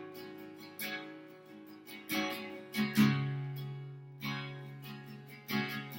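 Acoustic guitar being strummed softly, single chords struck and left to ring out, several strums a few seconds apart.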